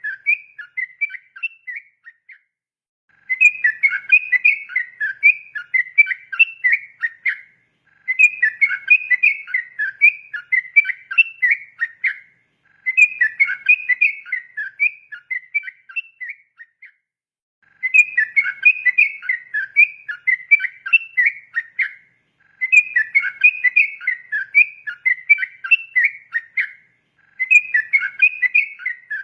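Yellow-vented bulbul (trucukan) singing a long, rapid, bubbly 'ropel' song: phrases of about four seconds each, repeated six times with a pause of about a second between them.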